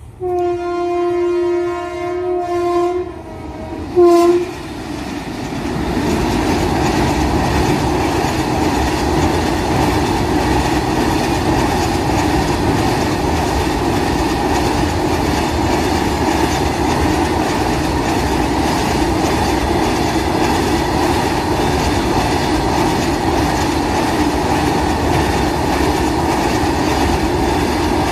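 An approaching freight train sounds its horn in one long blast of about three seconds, then a short blast about four seconds in. Its line of open-top freight wagons then rolls past with a steady rumble and rhythmic clatter of wheels over the rail joints.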